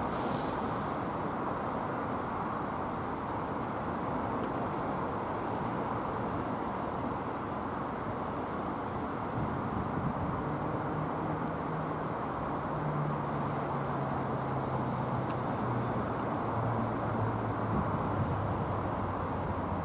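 A train runs with a steady rumble. About halfway in, a low hum comes in and steps down in pitch, as a train does when slowing.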